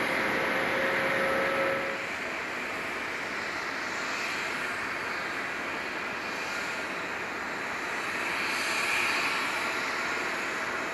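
Airbus A350-900's Rolls-Royce Trent XWB jet engines at takeoff power, a steady jet noise that swells slightly near the end. In the first two seconds a louder noise with a held tone cuts off abruptly.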